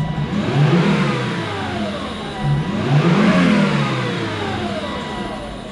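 2006 Volvo V70 R's turbocharged 2.5-litre five-cylinder engine revved twice from idle, each rev rising and falling back. It runs smoothly with no misfires.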